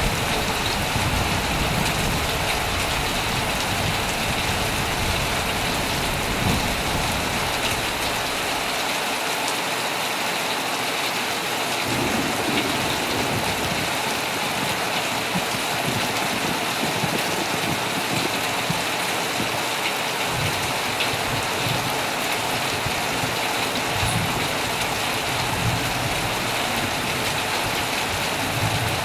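Heavy rain pelting steadily on a tent, with a low rumble under it for the first several seconds and again through the last third.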